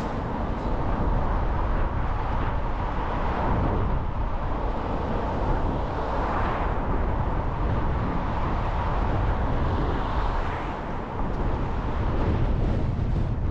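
Car on the move: steady road and engine noise with a heavy low rumble, swelling briefly about six seconds in.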